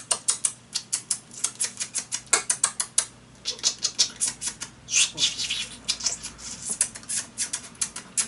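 A man imitating a squirrel with his mouth: a rapid run of sharp clicks and chatter, with short hissy spurts in the middle.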